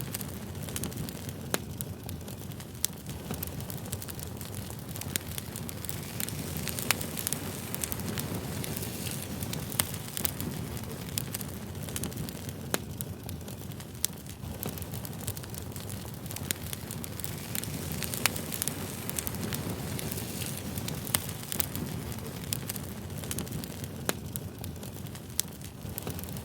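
Crackling wood fire: a steady low rumble of flames under frequent, irregular sharp pops and snaps, a few louder than the rest.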